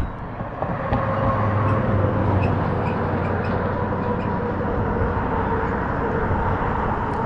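Boat motor running steadily with a low hum over a rushing noise, picking up slightly about a second in.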